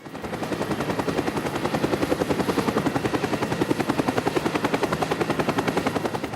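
A rapid, even mechanical chopping sound effect, many pulses a second, that fades in at the start and tails off near the end.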